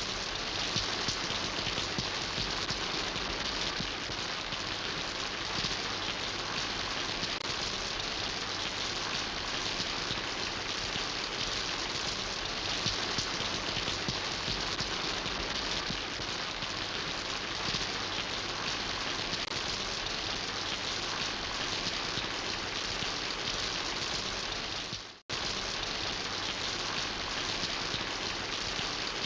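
Steady rain falling and pattering on surfaces, an even dense hiss of drops. About 25 seconds in it briefly fades out to silence and then cuts straight back in.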